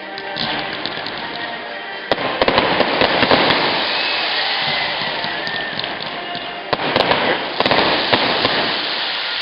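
Fireworks crackling with many rapid sharp pops, getting suddenly louder about two seconds in and again around seven seconds in.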